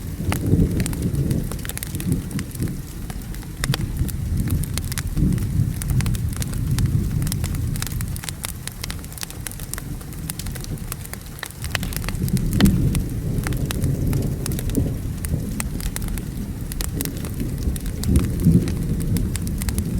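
Rain with low rumbles of thunder that swell and fade several times, the strongest about a second in, about twelve seconds in and near the end. A wood fire crackles throughout with frequent sharp pops.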